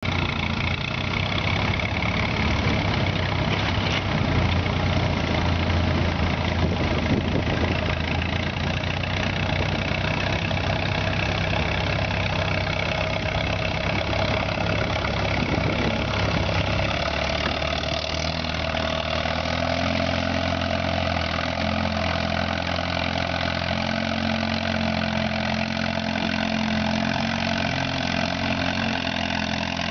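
A 1954 Allis-Chalmers WD-45 tractor's four-cylinder engine running hard under load while pulling a weight sled. Its note changes about halfway through.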